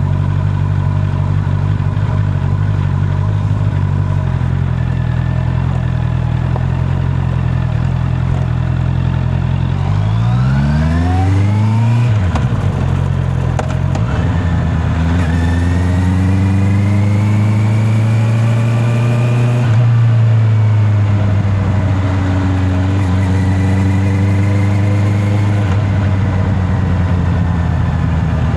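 Honda CB650R inline-four motorcycle engine running steadily at low revs, then revving up with rising pitch. It drops briefly in a gear change, pulls up again for several seconds, eases off and settles back to a steady run. Heard from the rider's back pocket.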